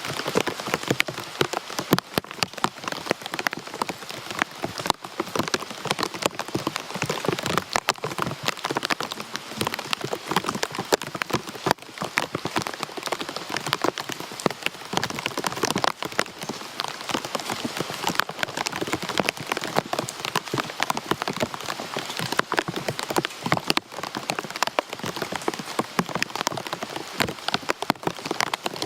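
Steady rain falling on hard surfaces, with many close drops ticking and pattering sharply.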